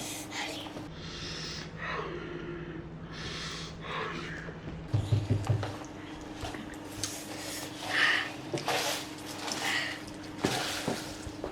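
Children sniffing and breathing hard in irregular breathy bursts while eating very spicy instant noodles, their mouths burning from the chilli. A steady low hum lies underneath, with a dull bump about five seconds in.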